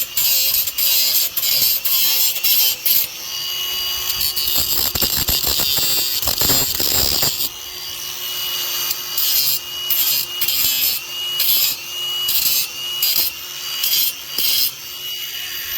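Electric grinder grinding down a fresh MIG weld bead on a go-kart frame to shape it. The motor's steady high whine runs throughout, and the gritty grinding hiss comes and goes in short bursts as the disc is pressed on and lifted off, most often in the second half.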